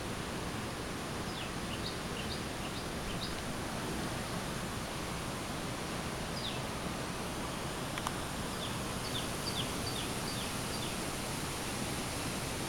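A small bird calling in two quick runs of short, high, downward chirps, over a steady outdoor background hiss. A single click about eight seconds in.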